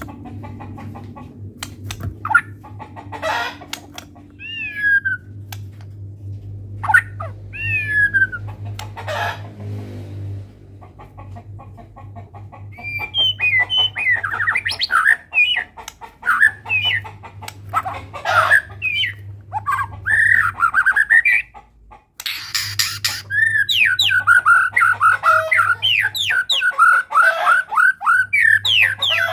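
White-rumped shama (murai batu) singing: scattered clicks and two falling whistles at first, then about halfway in a dense run of constantly changing phrases. It breaks off briefly and resumes as a fast string of repeated notes. This is the varied, mimicry-filled song that fanciers call 'full isian'.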